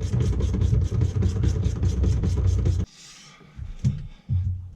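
A motor running with a rapid, regular clicking, about eight clicks a second, that cuts off suddenly about three seconds in. A few short knocks follow.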